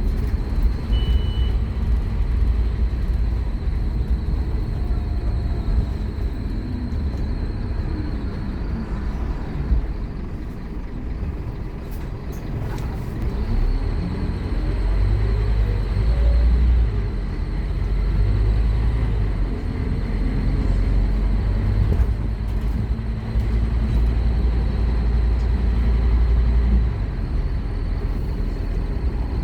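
Scania K230UB Omnilink bus's five-cylinder diesel engine running under heavy load with a deep rumble, its note rising in pitch part-way through as the bus accelerates.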